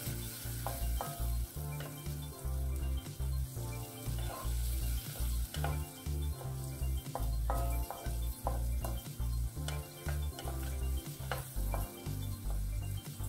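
Onion, chili and tomato sizzling in oil in a nonstick wok while a slotted wooden spatula stirs them, scraping and tapping against the pan again and again.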